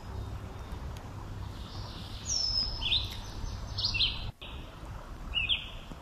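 Songbirds calling: a handful of short, high whistled chirps, one sliding down in pitch about two seconds in, over a low steady background rumble. The sound breaks off for an instant a little past four seconds.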